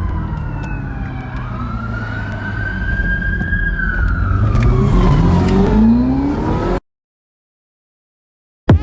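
A car engine revving and accelerating, with a high whine that glides up and down in pitch and grows louder. It cuts off abruptly about seven seconds in, leaving dead silence.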